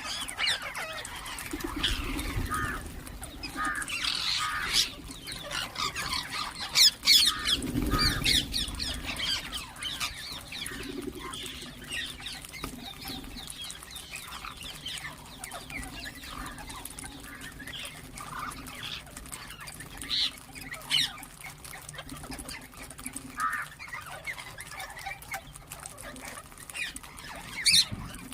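Ringneck parakeets calling, with short chirps and squawks in irregular bursts, busiest and loudest in the first eight seconds.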